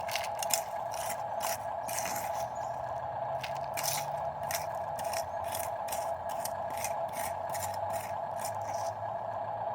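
Huina 1573 radio-controlled dump truck's electric motor and gearbox whining steadily, with irregular scraping and crunching of crushed stone.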